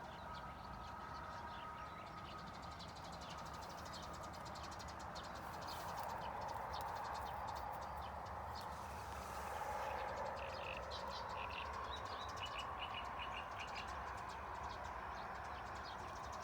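Small birds chirping, with a quick run of short chirps in the second half, over a steady background hiss.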